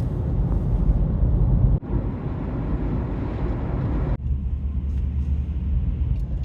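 Car driving at highway speed: a steady low road rumble with wind noise on the microphone, which changes abruptly about two and four seconds in.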